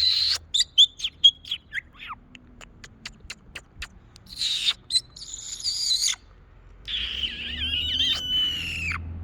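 Pet parrot clicking, chirping and squawking. A quick run of sharp clicks and short chirps comes first, then a harsh squawk from about four and a half seconds in. Warbling chatter with gliding whistles follows near the end.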